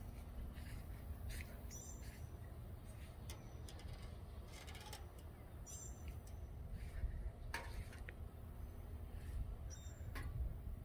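Faint outdoor ambience: a low steady rumble with three short, high bird chirps about four seconds apart.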